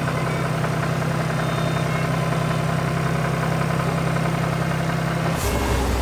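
A vehicle engine idling with a steady hum. About five seconds in it shifts to a deeper hum, with a brief swish.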